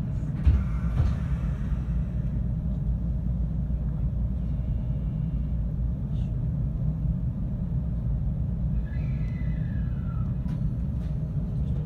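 Inside a 521 series electric train running: a steady low rumble of the wheels and running gear on the track. A knock about half a second in, and a faint falling whine around nine to ten seconds in.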